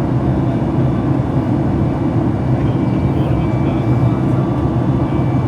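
Boeing 737 MAX 8 cabin noise: the CFM LEAP-1B engines and the airflow make a steady, loud, deep noise, with a faint high steady whine that comes and goes.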